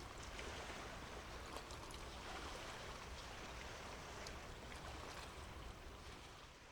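Steady washing and splashing of seawater with small scattered splashes, over a low rumble, fading out near the end.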